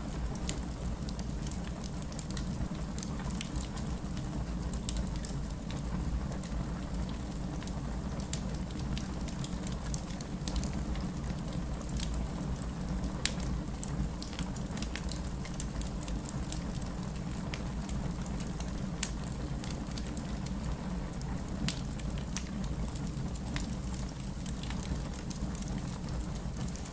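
Wood fire burning in a fireplace: many small, irregular crackles and pops over a steady low rumble of the flames.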